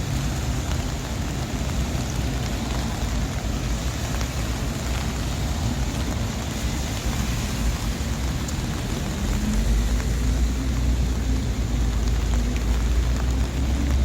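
Rain falling and city traffic running on a wet street. A heavy vehicle's low engine rumble grows louder about two thirds of the way through.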